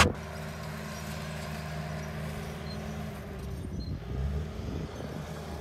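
A motor vehicle engine running steadily, picking up briefly about four seconds in.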